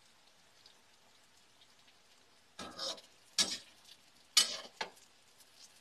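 Flour-coated okra frying in oil in a skillet with a faint sizzle, and a metal spoon stirring and scraping through it in a few short bursts from about two and a half seconds in, the loudest near four and a half seconds.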